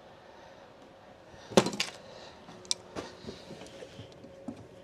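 Metal hand tools clattering and clinking as they are handled: a sharp cluster of clinks about a second and a half in, then a few lighter, separate clicks.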